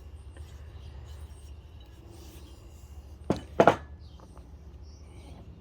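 Two sharp knocks of hand tools being handled or set down, about a third of a second apart a little past halfway, over a low steady hum.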